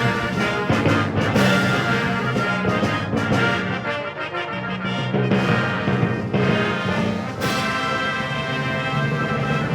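Military brass fanfare ensemble of trumpets and trombones playing loud, sustained chords, with a fresh loud entry about seven and a half seconds in.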